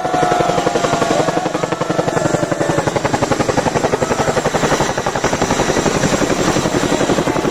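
Helicopter passing overhead, its rotor blades making a fast, even chop of about ten beats a second. A wavering high tone fades out over the first second or so.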